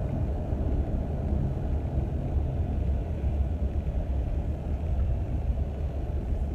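Steady low rumble with no other events, the same background that runs under the talking.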